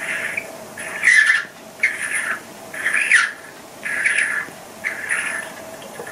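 A bird calling over and over, about one short call a second, with the calls a little past one second and a little past three seconds louder than the rest.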